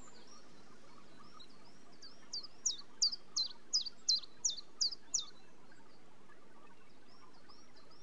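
A songbird singing a quick run of about ten high notes, each falling in pitch, roughly three a second, with fainter chirps before and after it over a steady background hiss.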